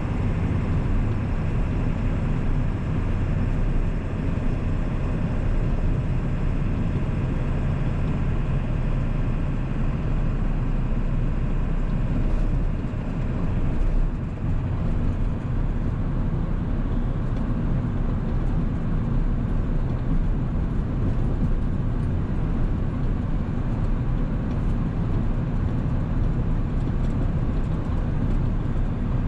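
1997 Ford 7.3-litre Power Stroke turbo-diesel V8 running steadily while driving, with a brief dip in level about 14 seconds in.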